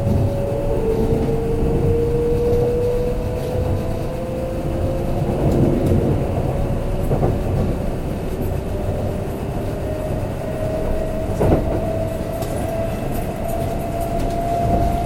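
Kintetsu limited express train running, heard from inside the passenger car: a steady rumble of wheels on track under a motor whine that slowly rises in pitch as the train gathers speed, with a couple of sharp clacks from the wheels over the rails.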